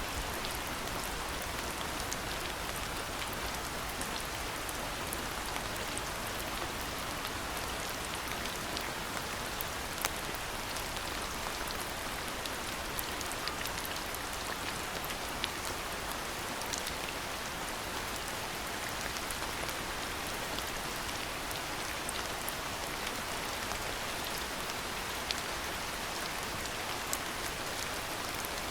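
Steady rain falling: an even hiss with many scattered sharp ticks of single drops landing close by.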